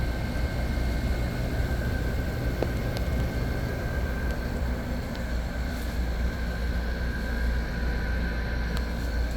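Friedrich window air conditioner running, heard at its rear coil side: a steady low hum of the compressor and condenser fan with a steady thin whine over it.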